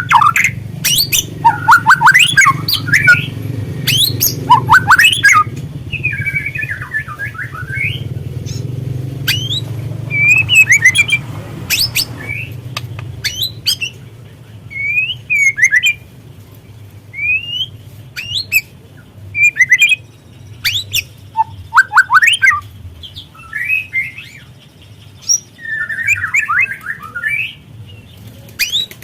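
Juvenile (spotted 'trotol') white-rumped shama calling in irregular bursts of quick sweeping whistles and short rasping chatter, a lure recording meant to set other shamas singing. A steady low hum sits under it for the first half and fades out about halfway through.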